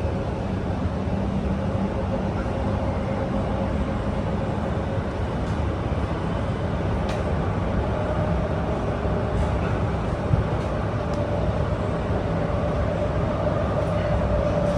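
SMRT R151 metro train running between stations, heard from inside the car: a steady rumble of wheels on track with a faint, even hum.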